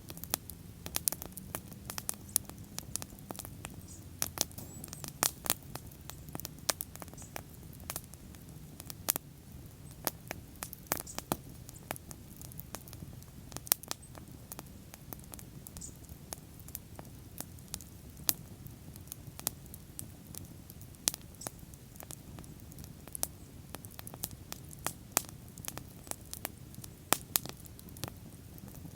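Wood fire burning, with frequent sharp crackles and pops over a low steady rumble of the flames.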